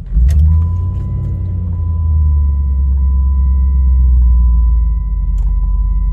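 2000 Jeep Grand Cherokee engine starting from cold and catching at once, then running at a fast cold idle that eases down a little about five seconds in. A steady high key-in-ignition warning chime sounds over it.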